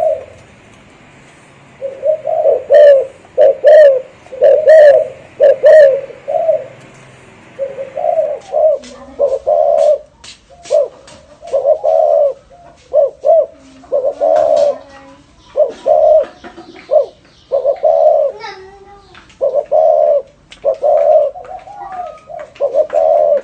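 Spotted dove cooing in the rolling 'thổ rền' style, used as a lure call: loud low coos repeated in quick groups. From about 8 s in, sharp clicks fall between the coos.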